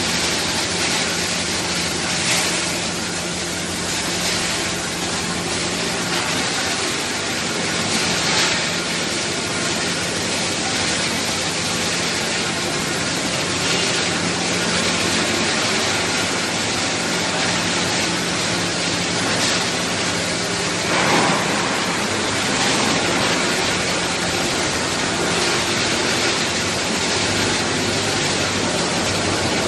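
Hydraulic wood-pallet hot-press machine running in a factory: a steady mechanical noise with a low hum and a few faint knocks. About two-thirds of the way through, the hum stops as a brief louder knock sounds.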